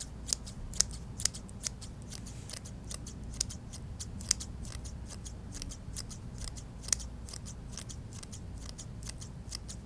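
Scissors snipping for a small hair trim: sharp, irregular snips, a few per second.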